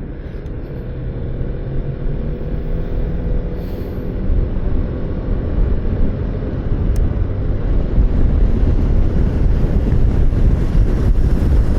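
Motorcycle engine running under way, mixed with wind rush and road noise, growing louder partway through.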